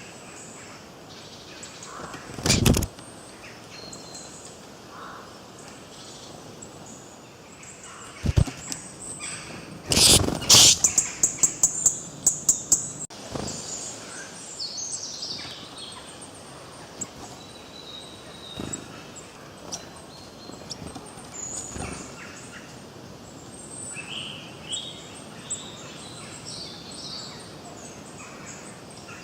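Wild birds chirping and calling over a steady outdoor background. There are loud single calls about two and eight seconds in, and a loud call about ten seconds in that runs into a rapid series of short notes, fading over a couple of seconds.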